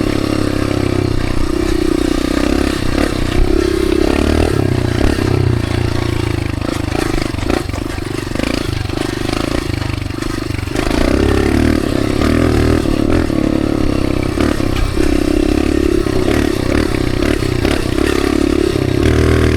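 Dirt bike engine running under way, a steady buzzing drone that eases off about eight seconds in and picks up again around eleven seconds in.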